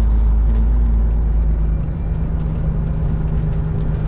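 Semi truck's diesel engine and road noise heard inside the cab while driving, a steady low drone whose deepest rumble eases about two seconds in.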